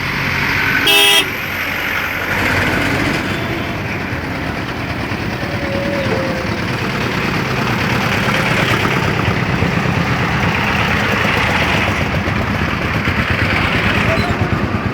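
Steady road traffic noise, with a short, loud vehicle horn blast about a second in.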